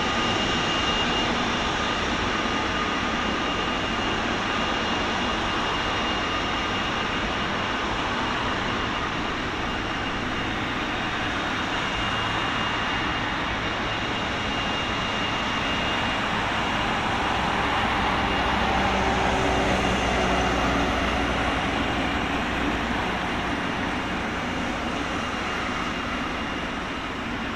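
Jet engine noise of a landing FedEx Boeing 777, a steady rushing roar that swells louder about two-thirds of the way through and then eases off.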